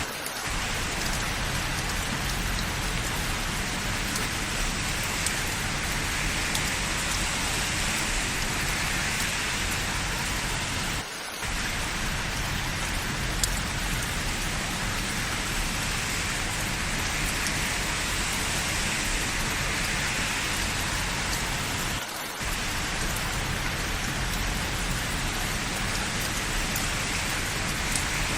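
Steady rain falling, an even hiss with scattered faint drop ticks. It dips briefly twice, about 11 and 22 seconds in.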